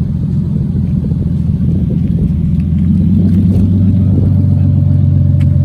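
Car engine running hard during a burnout on dirt, the rear tyre shredded to its cords; the revs settle into a steady drone about three seconds in.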